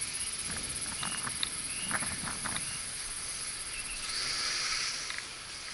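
A small U807 toy quadcopter whining faintly and high-pitched at a distance, over steady wind hiss, with a few short chirps and a stronger gust of hiss about four seconds in.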